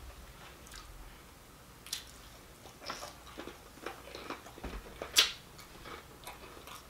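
A person chewing fried fish, with short soft clicks and smacks from the mouth; the sharpest click comes about five seconds in.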